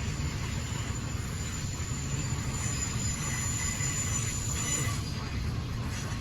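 Double-stack container freight train rolling by with a steady low rumble, its steel wheels squealing in thin high tones through the middle.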